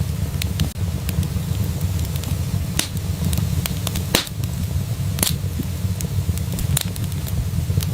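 Wood fire burning in a fireplace with a low steady rumble and irregular sharp crackles and pops, a few louder snaps standing out.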